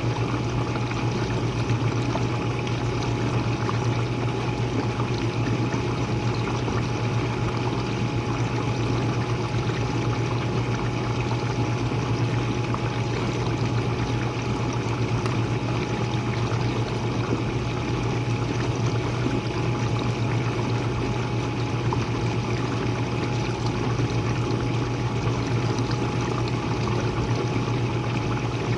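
Jenn-Air dishwasher running mid-cycle, heard from its bottom: a steady low hum from the pump motor under an even rush of water circulating inside, with a faint constant whine.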